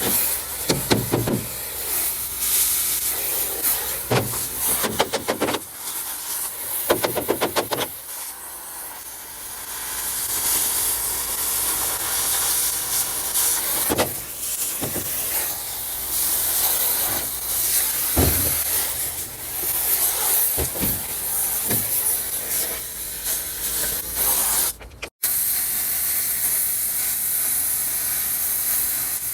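Gas cutting torch hissing steadily as it cuts steel, with a few sharp pops and knocks and a brief fluttering stretch. The sound cuts out for an instant near the end.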